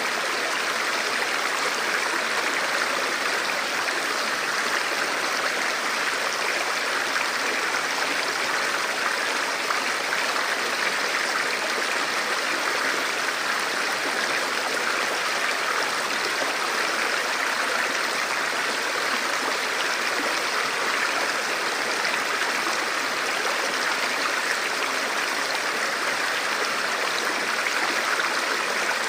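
Forest river or stream flowing steadily over rocks, a continuous rushing of water.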